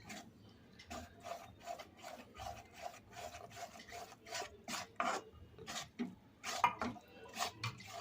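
Spatula scraping around a kadhai, stirring gram flour into hot ghee, in a quick run of short rasping strokes, roughly two to three a second.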